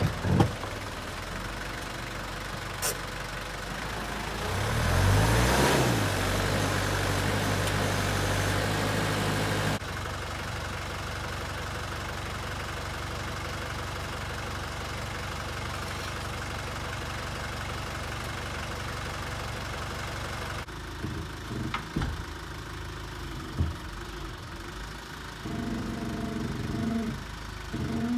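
Tractor engine running; it revs up about four seconds in, holds the higher speed for several seconds, then runs more steadily, with a few sharp knocks near the end.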